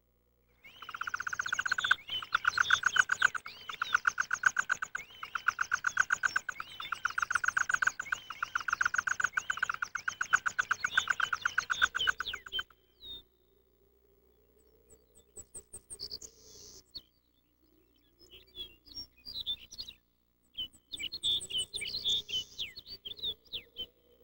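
Bird calls: a dense, rapid chirping that keeps up for about twelve seconds, then stops abruptly and gives way to sparser, higher chirps and squeaks.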